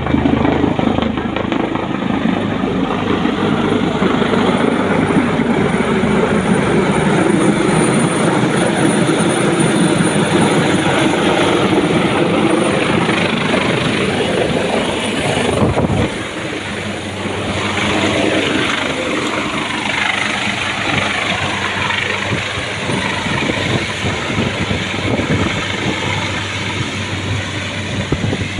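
Helicopter running close by: loud, steady rotor and engine noise. It dips a little about sixteen seconds in, then carries on.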